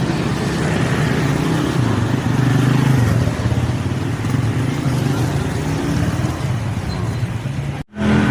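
Busy street-market din dominated by running vehicle engines, with a faint murmur of voices. The sound cuts out abruptly for a moment near the end.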